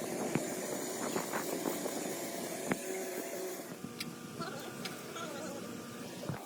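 Workshop noise: scattered sharp clicks and knocks, like metal tools being handled, over a steady background noise. The background thins a little past the middle, leaving faint voices.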